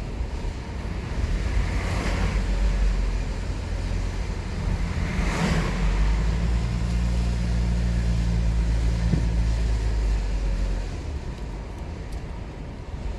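Car driving, heard from inside the cabin: steady low road and engine rumble, with two brief whooshes about two and five seconds in. An engine hum joins for a few seconds in the middle, and the noise eases near the end.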